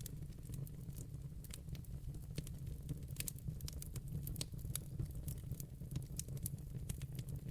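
Wood fire in a fireplace crackling: a steady low rumble of the flames with frequent sharp, irregular pops and snaps.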